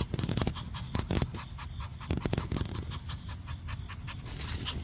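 A domestic cat panting rapidly, out of breath after exertion.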